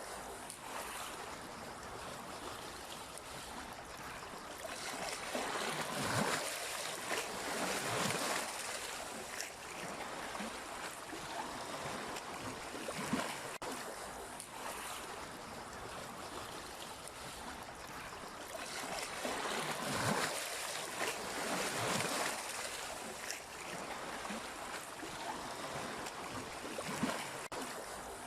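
Sea waves washing onto the shore, a steady rushing surf that swells louder twice as bigger waves break, about a quarter of the way in and again past the two-thirds mark.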